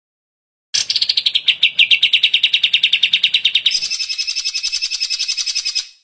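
Greater green leafbird (cucak ijo) singing a fast trill: it starts just under a second in with a falling note that runs into a rapid, even rattle of notes, then switches to a higher, buzzier trill that stops just before the end.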